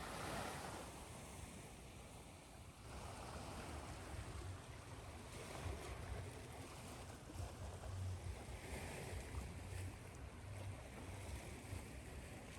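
Ocean surf washing in and out under a steady layer of white noise, with slow swells in loudness and a low rumble of the breaking waves.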